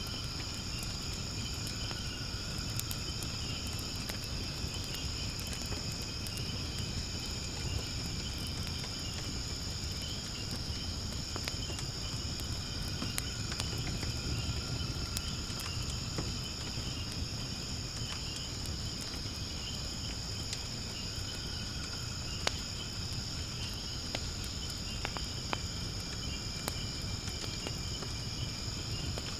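Firewood burning in a fire-pit stand, with scattered sharp crackles and pops and one louder pop about 22 seconds in, against a low steady rumble. A steady, high chorus of insects or crickets chirps throughout.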